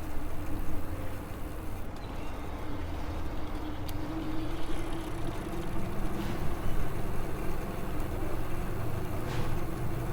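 Electric bike riding along a path: a steady low rumble of wind and tyres, with an even hum from the electric motor running under it.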